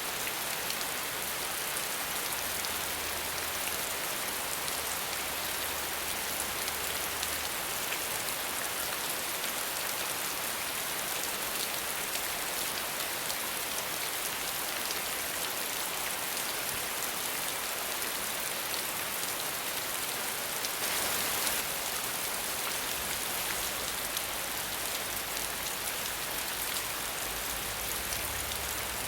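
Steady rain falling, a dense hiss of many drops with no thunder. It swells briefly about three-quarters of the way through.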